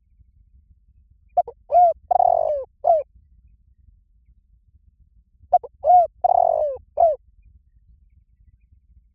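Spotted dove cooing: two phrases a few seconds apart, each of four low coos with the third drawn out longest.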